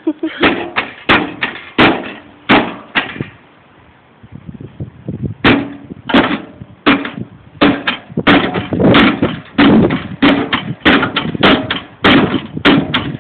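A microwave oven's casing being smashed, struck again and again: a run of about eight blows, a pause of about two seconds, then a faster run of sharp bangs, two or three a second, to the end.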